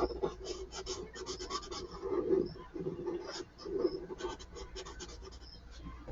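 Marker scratching across paper in quick back-and-forth strokes, colouring in.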